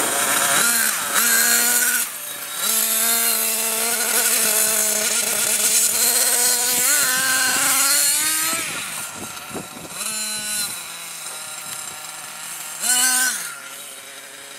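Nitro RC monster truck's small glow-fuel engine running at high revs with a buzzing whine, held for several seconds with small rises and falls, then easing off. Two short bursts of throttle follow later on before it drops back to a lower note.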